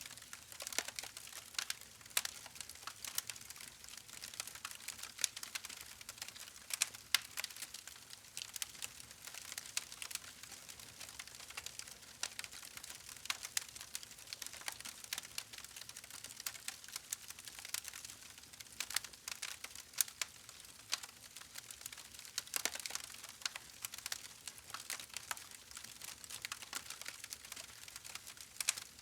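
Wood fire crackling: irregular sharp pops and snaps, many each second, over a faint steady hiss.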